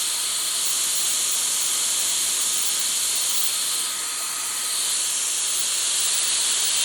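High-speed hair dryer with a brushless motor running, blowing a steady, loud rush of air that dips slightly about four seconds in.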